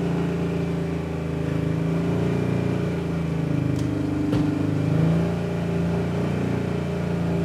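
A motor vehicle's engine running under load, its revs rising and falling as it hauls on a taut rope to pull a tree over.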